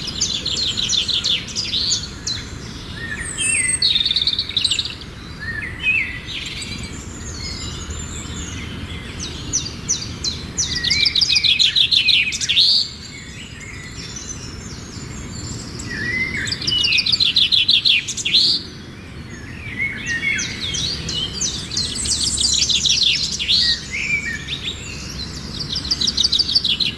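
Songbirds singing: repeated phrases of fast, high trills mixed with short whistled notes, with the loudest trilling bursts about eleven and seventeen seconds in.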